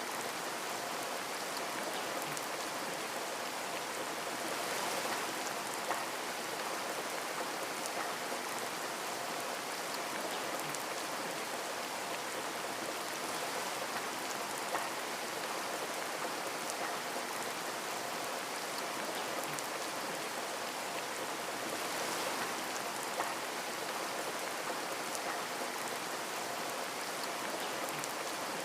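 Steady rain falling on a window, an even hiss with scattered drop ticks and a few sharper single taps.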